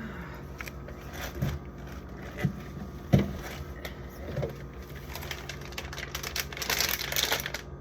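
Food containers being handled while clearing out a fridge: a few sharp knocks of items being set down in the first half, the third the loudest, then a stretch of rustling, over a steady low hum.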